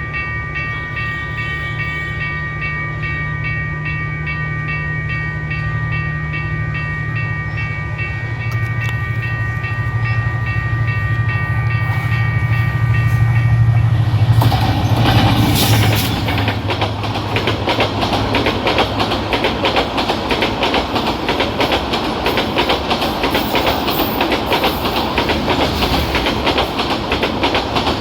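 Diesel-electric locomotive, a Hyundai Rotem 3000-series, approaching and passing with a deep engine rumble and a steady high whine. About halfway through it gives way to the fast clickety-clack of the passenger carriages' wheels rolling over the rail joints.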